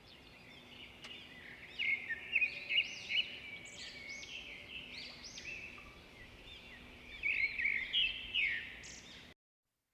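Birds chirping and twittering in quick short notes, with louder bouts about two seconds in and again around seven to eight seconds, over a faint steady hum; the sound cuts off suddenly near the end.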